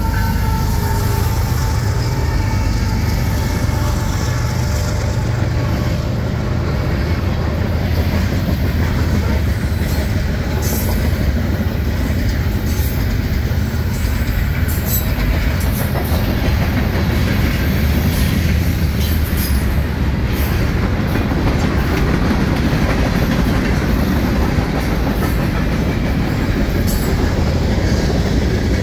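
CSX freight train rolling past close by: a steady heavy rumble with wheels clattering over the rails and occasional high squeals and clicks from the wheels. The horn's last note dies away at the very start.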